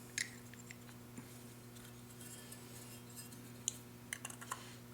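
Scattered light clicks and clinks of small carburetor parts being handled, over a faint steady low hum.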